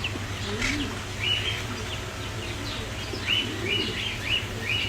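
Birds chirping: a series of short, high chirps, several of them close together about three seconds in, over a steady low hum.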